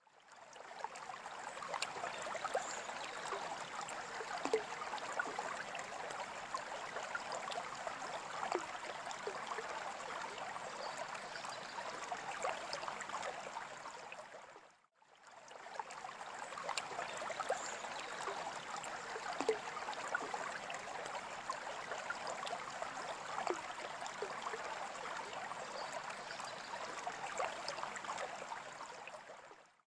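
Water trickling and bubbling in a freshwater aquarium, steady with many small gurgles. It fades out briefly about halfway and comes back in.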